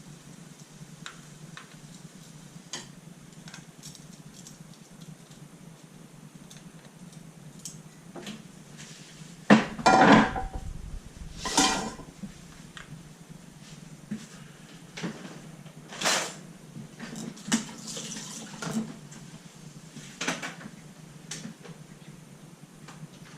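Dishes and cutlery clinking and clattering, with scattered light knocks and then louder clatters about ten seconds in and again a few times later, over a low steady hum.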